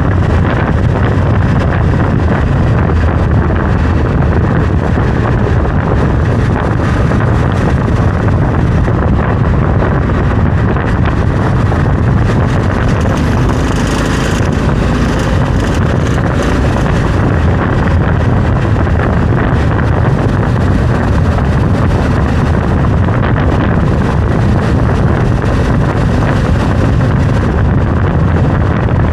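Honda Africa Twin CRF1100L motorcycle underway, its parallel-twin engine running steadily under a heavy rush of wind on the microphone.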